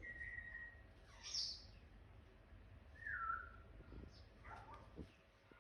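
Pet macaw making a few short, separate calls: a falling whistle at the start, a loud squeak about a second in, another falling whistle near the middle and a scratchy call toward the end.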